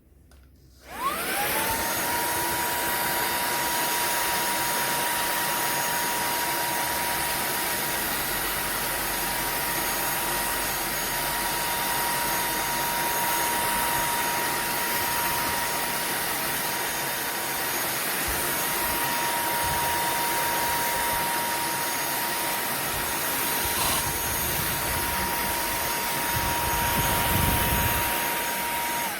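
SERVOMASTER cordless handheld vacuum cleaner switched on, its motor spinning up with a rising whine. It runs at a steady high whine with rushing air for nearly half a minute, then is switched off and winds down.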